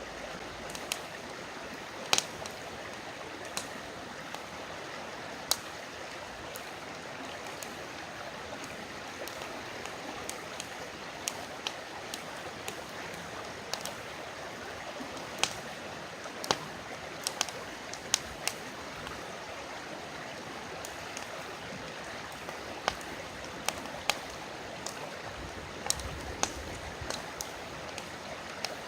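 Campfire crackling, with sharp irregular pops and snaps every second or so, over the steady rush of a flowing river.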